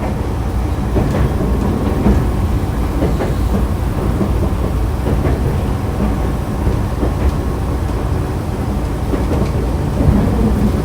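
Nankai Kada Line electric train (set 2036F) running between stations, heard from inside the car: a steady low rumble of wheels on rail, with scattered faint knocks from the track.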